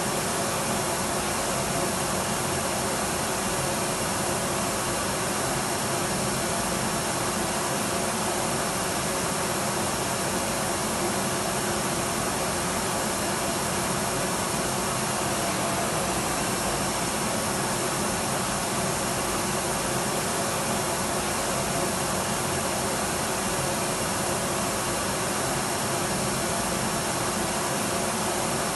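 Electric vacuum cleaner running steadily: an even motor hum and rushing air with a few faint steady tones, its level unchanging.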